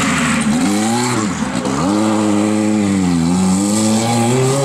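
Rally car engine revving up and down: the pitch falls and climbs several times as the throttle is lifted and reapplied, with the last climb near the end.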